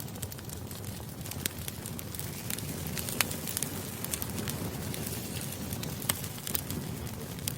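Campfire burning: a steady rush with frequent irregular sharp crackles and pops from the burning wood, one pop standing out about three seconds in.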